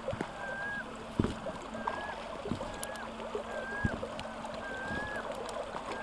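A bird calling over and over, short thin whistled notes about once a second, over the steady rush of the river, with a few low thumps in between.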